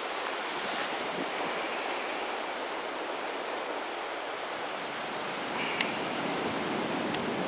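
Steady rushing of strong wind through the forest, with one short sharp click about three quarters of the way through.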